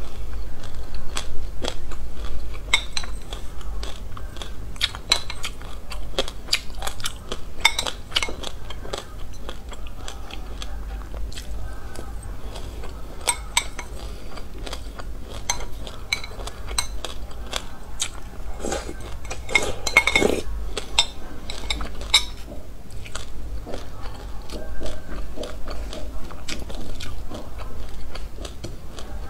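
Close-miked chewing and crunching of sesame seeds, many small crackling clicks, with a metal spoon clinking and scraping against a glass bowl. A low steady hum runs underneath.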